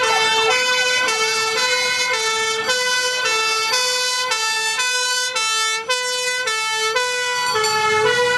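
An emergency vehicle's two-tone siren sounding continuously, alternating between a higher and a lower note about every half second.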